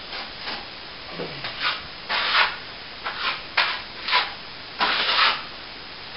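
A hand tool rubbing against a plaster wall in a series of irregular strokes, some short and some longer, with the loudest strokes about two seconds in and again near the end.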